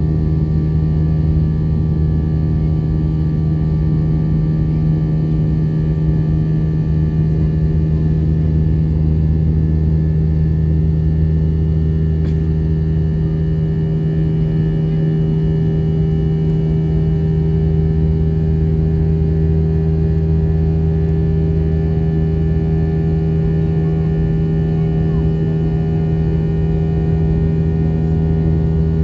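Steady engine drone of an Airbus A320 heard inside the passenger cabin, an even low hum with a few fixed tones above it that hold unchanged throughout, as the jet flies on after takeoff.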